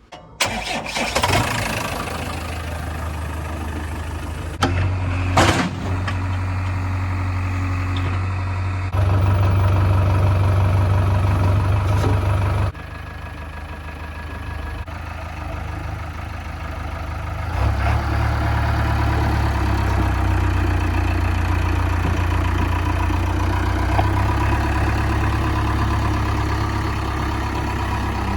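JCB 3DX backhoe loader's diesel engine running, its revs stepping up and down several times as it works.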